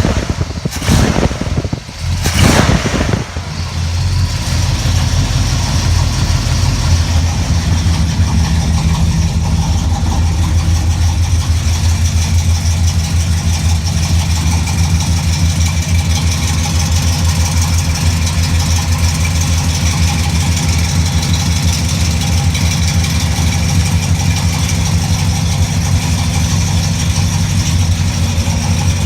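Car engine, running for the first time behind a newly fitted 700R4 automatic transmission, revved twice in quick succession near the start, then settling into a steady idle.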